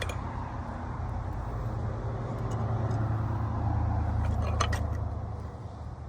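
A motor vehicle's engine rumbling past: a low steady rumble that builds for a few seconds, then fades near the end, with a couple of light clicks.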